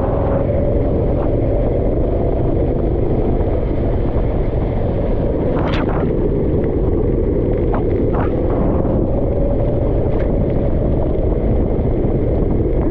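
Go-kart engine running steadily under a heavy low rumble, its pitch wavering a little, with a few brief clicks.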